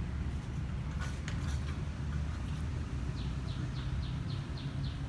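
An animal chirping: a quick run of about eight short, falling high chirps in the second half, over a steady low rumble.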